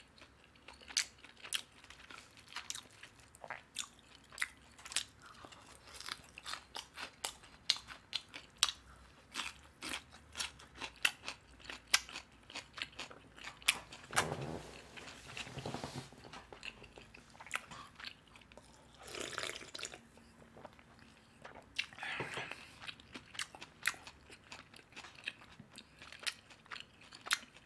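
Close-miked chewing of crispy Korean fried chicken: a dense run of short, crackly crunches as the batter is bitten and chewed.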